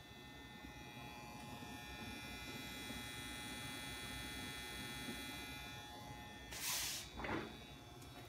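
Alienware Aurora R7 desktop PC giving off a high-pitched electrical whine of several steady tones together, swelling in the middle and fading again; this is the weird noise the machine is making. Near the end come two short noisy bursts.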